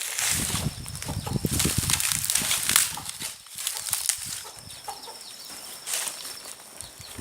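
Free-range hens with their chicks foraging: repeated short scratching and rustling, with faint clucking, busier in the first few seconds.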